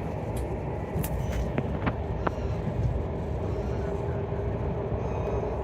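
Flåm Railway train running: a steady low rumble of wheels on rails, with a few sharp clicks and knocks about a second to two seconds in.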